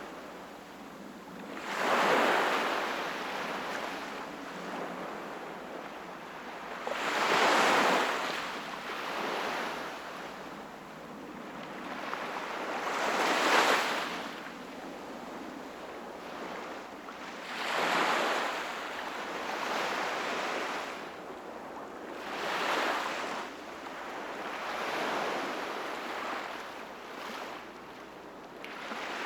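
Sea waves washing onto the shore, each surge swelling and fading over a steady hiss of surf, about every four to six seconds. The strongest surges come in the first half.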